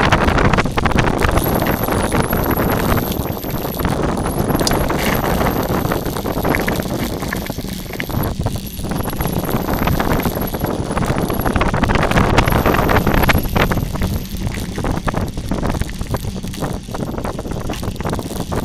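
Bicycle rolling fast down a rough forest dirt trail: steady tyre rumble on the ground with frequent short knocks and rattles from the bike, and wind on the microphone.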